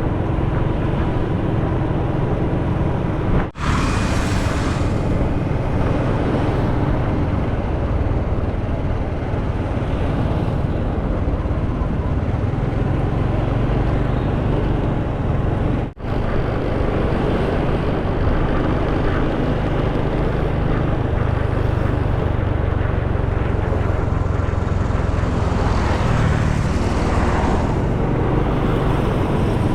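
Motorcycle riding along a road, heard from the rider's camera: steady engine and road noise with traffic around. The sound cuts out for an instant twice, and there is a louder rush about four seconds in and again near the end.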